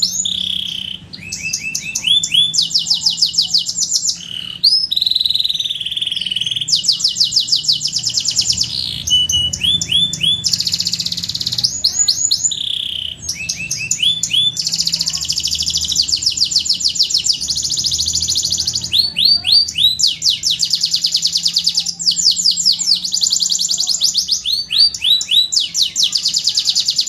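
Domestic canary singing a long, unbroken song of rapid trills and rolls: quick series of repeated high notes, each series giving way to a different one every second or two.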